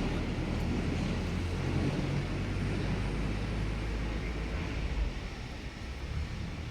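A large truck engine running steadily with a low hum, easing off slightly about five seconds in.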